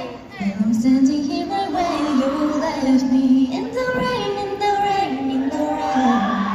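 Female voices singing a pop melody over a backing track, with held notes that step up and down in pitch.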